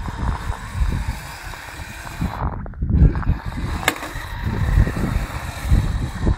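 Kyosho Blizzard radio-controlled snowcat running over snow: an uneven rumbling, scraping clatter that surges and eases, with one sharp click about four seconds in.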